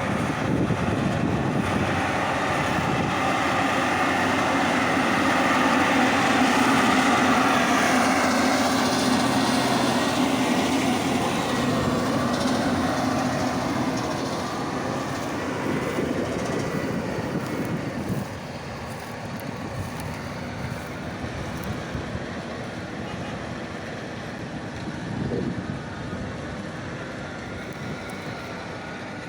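Heavy farm machinery diesel engine running under load, swelling louder early on and then fading, with a clear drop in level about two-thirds of the way through.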